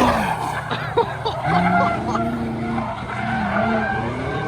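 Car tires squealing with a wavering pitch as a car is driven hard through a turn, over the sound of the engines running.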